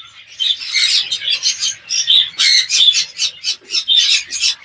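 Budgerigars giving a rapid run of harsh, raspy chirping calls, several a second.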